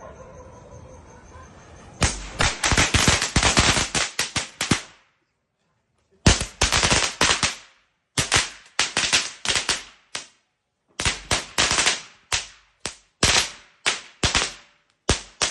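Firecrackers going off in rapid runs of sharp cracks, several bursts of many bangs each, broken by sudden complete silences. Faint background music for the first two seconds.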